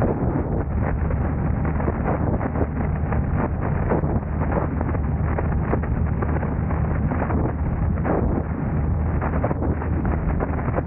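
Steady low hum of a car driving, with a continual run of irregular light knocks and clicks over it.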